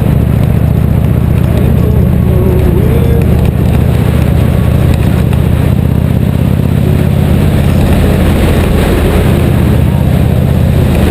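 Motorcycle engine running steadily while riding, its low note holding even, under a loud, constant rushing noise.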